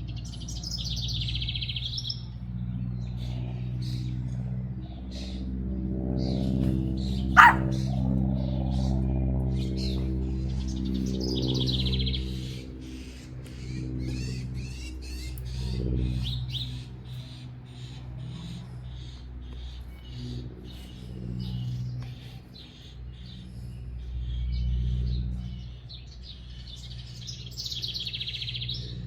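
Backyard songbirds chirping and trilling, with trill phrases at the start, around ten seconds in and near the end. A steady low drone with a fixed pitch runs underneath, and a single sharp rising squeak about seven seconds in is the loudest sound.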